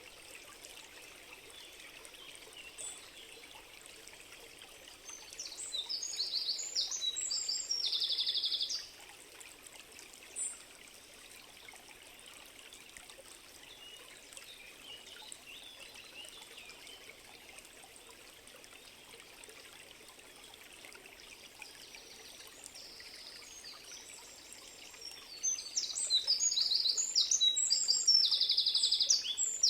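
A stream running steadily, with a songbird singing twice. Each song lasts about four seconds and ends in a fast, even trill.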